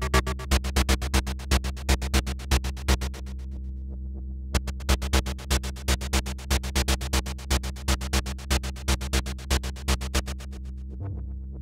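Malekko Manther analog synthesizer running a fast sequence of short, clicky notes, about seven a second, over a steady low tone. The notes drop out for a moment about four seconds in and again near the end, leaving only the low tone.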